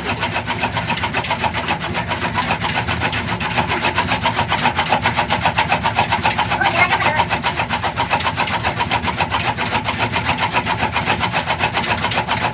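Black Peter single-cylinder diesel engine running steadily with an even, rapid beat, powering a chaff cutter.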